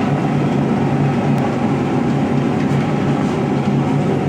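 Forge running with a steady rushing noise and a constant low hum, with no hammer blows.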